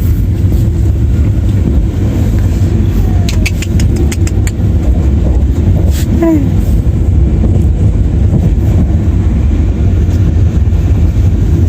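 Passenger train running on the rails, heard from inside the carriage as a steady low rumble. A quick run of sharp clicks comes about three to four seconds in, and a single click follows a couple of seconds later.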